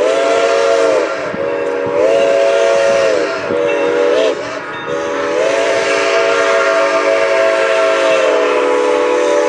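A locomotive's multi-note chime sounds the grade-crossing signal: two long blasts, a short one, then a long held blast.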